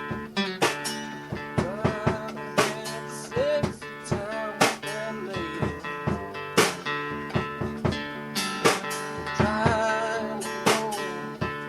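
Acoustic guitar music: sharp plucked and strummed notes over held chords, with a wavering melody line above them.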